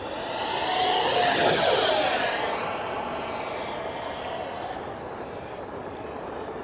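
FMS BAE Hawk electric ducted-fan model jet passing close by. Its high fan whine and rush of air swell to their loudest about two seconds in and then fade. The whine drops in pitch just before five seconds in.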